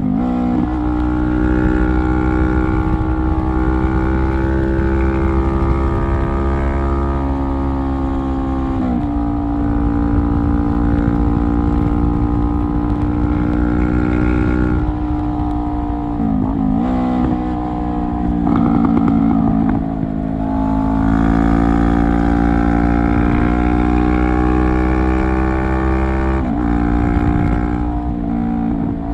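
Straight-piped exhaust of a 2017 Honda CBR500R's parallel-twin engine under way, running at a fairly steady pitch with a brief dip and recovery in revs about four times.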